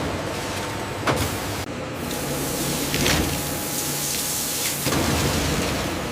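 Factory machinery running: a steady hissing noise with a low hum, broken by three sharp knocks.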